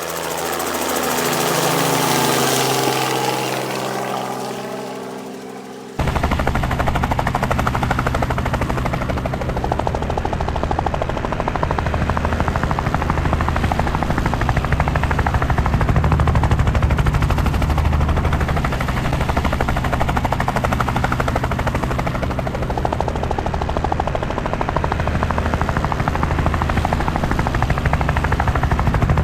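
A helicopter passing by, growing louder and then fading as its pitch falls. About six seconds in the sound cuts abruptly to a steady, close helicopter rotor and turbine with a rapid low rotor chop.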